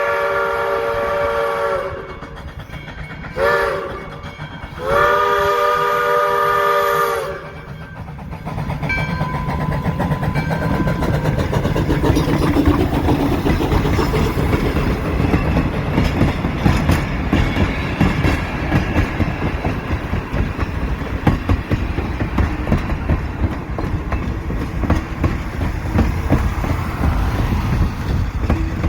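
A locomotive sounds three signal blasts, long, short, long, each a chord of several steady tones. From about eight seconds in, the train runs by with a steady rumble and rapid clickety-clack of wheels over the rail joints.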